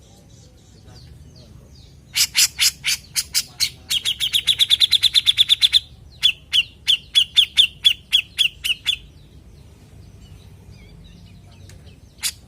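Cucak jenggot (grey-cheeked bulbul) calling loudly in a chattering series. It starts about two seconds in with clipped notes, speeds into a fast trill, slows into evenly spaced repeated notes, stops about nine seconds in, and starts again just at the end.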